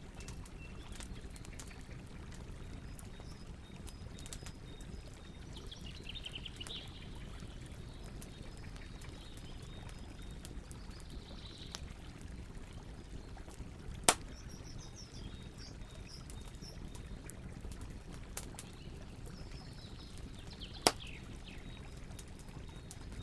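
Campfire burning with occasional sharp pops from the wood, three of them, over a steady low rush of river water. Birds call now and then in the background.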